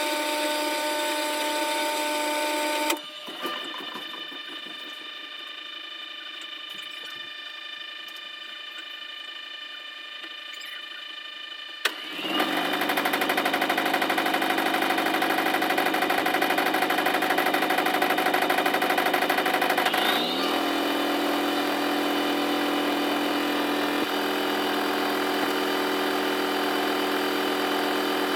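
Washing machine motor running with a steady whine, sped up in a time lapse. About three seconds in it suddenly drops quieter, then about twelve seconds in it jumps louder with a quickly rising whine, and rises in pitch again about twenty seconds in as the drum gathers speed.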